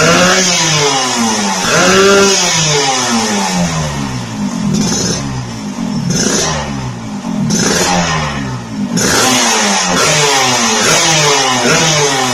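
Yamaha RX-King's two-stroke single-cylinder engine revved through an aftermarket SR Thailand-style racing exhaust, in repeated throttle blips with the pitch rising and falling over and over. The revving eases off for a few seconds in the middle, then picks up again.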